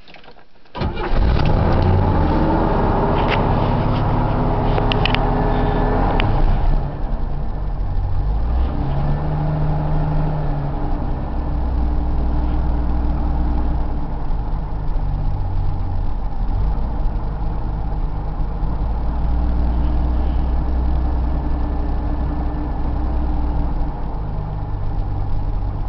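1979 Chevrolet Camaro's inline-six engine cold-starting: it catches about a second in, runs rough and uneven for several seconds, then settles into a fast cold idle whose speed rises and falls as it tries to get down to idle.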